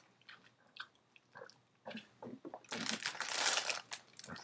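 A person biting and chewing a peanut butter Pop-Tart close to the microphone: scattered small crunches, then a louder stretch of noise about three seconds in.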